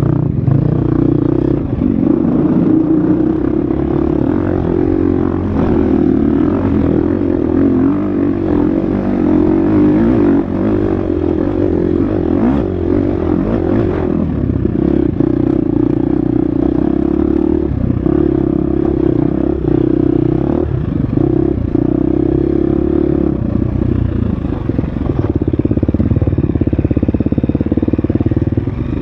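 Husqvarna FX 350 single-cylinder four-stroke dirt bike engine running hard on a trail, its pitch rising and falling as the throttle opens and closes, with scattered clatter and knocks from the bike over rough ground.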